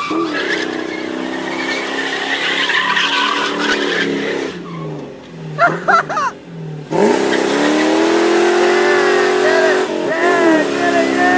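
Ford Mustang GT V8 with a Magnaflow exhaust revving hard through a burnout, with tyre squeal. The revs drop off about four and a half seconds in and blip a few times, then climb sharply back to a high, steady pitch about seven seconds in.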